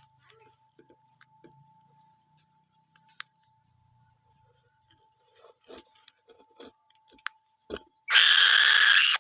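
Faint scattered clicks and small tearing crackles, as a falcon rips at its prey with its beak. About eight seconds in comes a loud, harsh hiss lasting about a second, much louder than everything before it.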